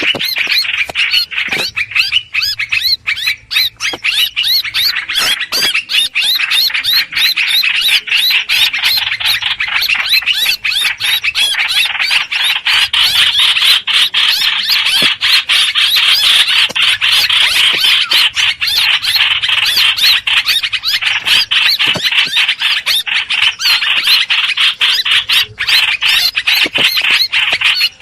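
Lure-call recording of the bird known in Vietnamese as the hoành hoạch, singing and calling non-stop in quick, repeated high notes.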